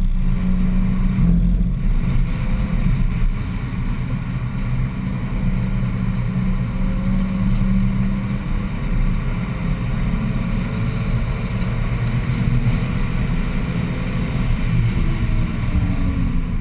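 BMW 1M's twin-turbo inline-six pulling hard through the gears, heard from inside the cabin over tyre and road noise, with two brief dips in the sound in the first two seconds and the engine note falling near the end.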